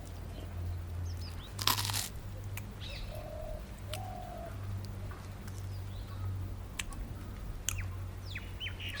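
Birds chirping over a low steady hum, with one loud crunch about two seconds in and a few light clicks.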